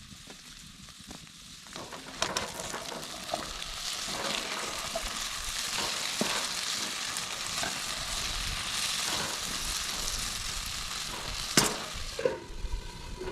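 Food sizzling in a hot pan over a campfire, a steady frying hiss that comes up about two seconds in, with small crackles and one sharp clack near the end.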